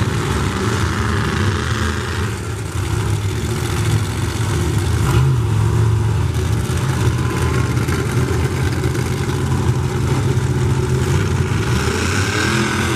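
Monster truck engines running loudly with a deep, steady rumble, the pitch rising briefly near the end.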